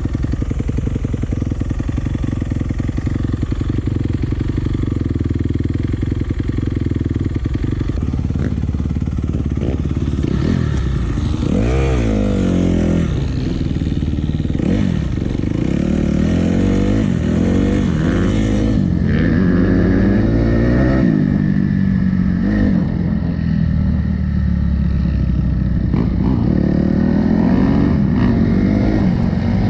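Enduro motorcycle engine running steadily at first, then revving up and down repeatedly from about ten seconds in as the bike is ridden.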